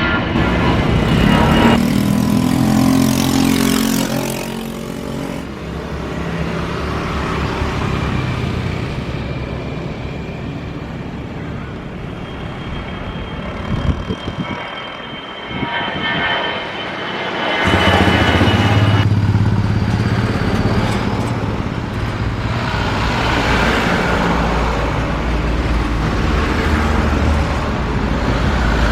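Loud engine noise from passing vehicles, rising and falling. It eases off and sounds a few knocks about halfway through, then swells again with a deep drone.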